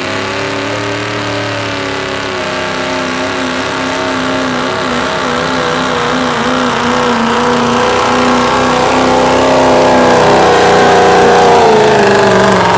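Ford 6.0L Power Stroke V8 turbo-diesel pulling a weight sled under heavy load, held at high, steady revs with a slightly wavering note that grows louder toward the end.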